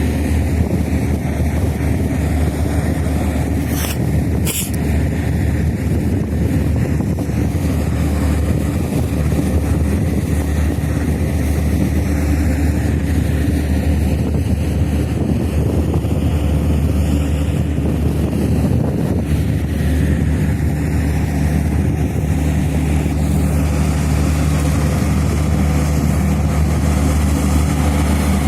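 A ferry's engines running with a steady low drone. Two short clicks come about four seconds in.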